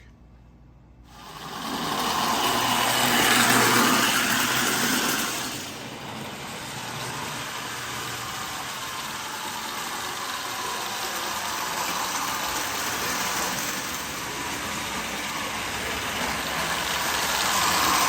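Marx plastic 400 toy locomotive running around the track pulling a train of 6-inch tank cars, its electric motor whirring and the train rattling along the rails. It starts about a second in, is loudest for the next few seconds as it passes close by, then runs on steadily and grows louder again near the end.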